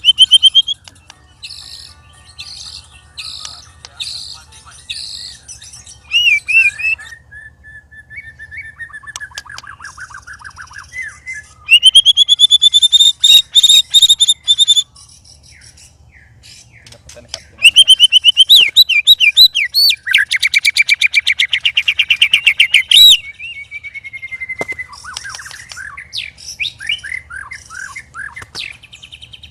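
White-rumped shama (murai batu) singing a varied song: clear whistled phrases and chattering notes, broken by two long, loud, rapid trills, one about twelve seconds in and one about eighteen seconds in.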